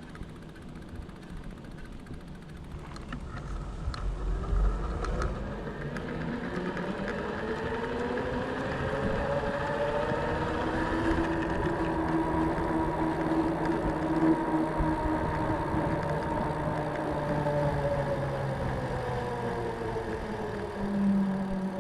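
Schwalbe Jumbo Jim 4.4-inch fat bike tyres humming on a hard surface, a pitched drone that rises as the bike speeds up, holds steady, then falls as it slows, over rolling rumble. A few clicks sound early on.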